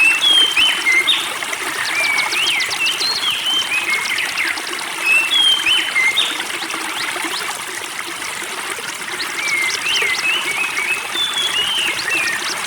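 Spring water trickling steadily while songbirds call continuously over it: short whistled notes sliding up and down, with quick rattling trills mixed in.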